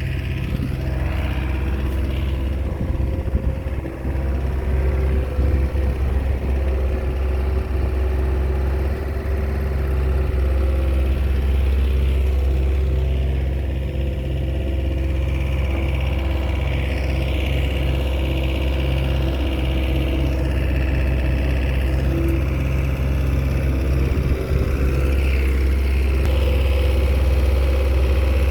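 Komatsu crawler bulldozer's diesel engine running steadily, its low note unbroken throughout.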